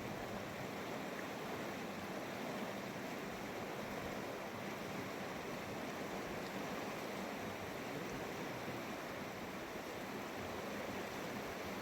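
Steady rush of a fast-flowing mountain river, an even roar of water with no breaks.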